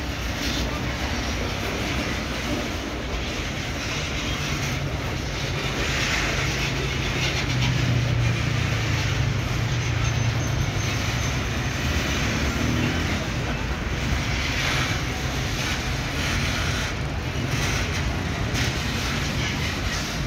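Loaded bauxite ore gondola wagons of a freight train rolling past, a steady rumble of steel wheels on rail with a low hum that grows a little louder from about eight seconds in.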